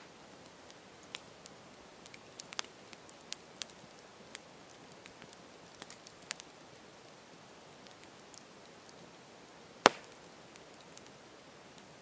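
Campfire burning: a soft steady hiss with scattered crackles and sharp pops, one much louder pop near the end.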